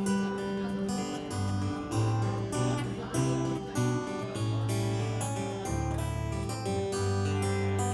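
Acoustic guitar playing an instrumental passage of plucked notes over held bass notes, with no singing.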